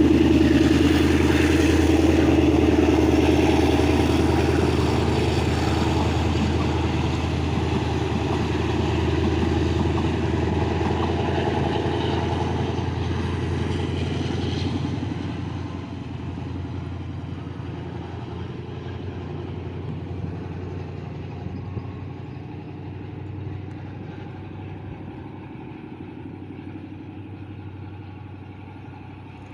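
Diesel-hauled passenger train moving away along the line, its locomotive engine drone and running noise loudest at first and fading steadily as it recedes, with a further drop about halfway through.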